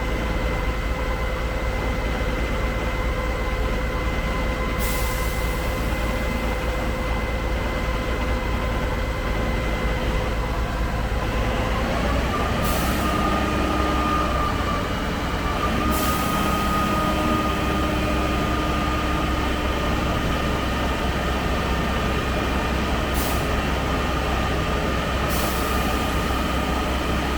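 Concrete pump truck's diesel engine and hydraulics running steadily with a whine. About twelve seconds in the whine rises in pitch and holds there as the engine speeds up to work the boom. A few brief hissing clicks.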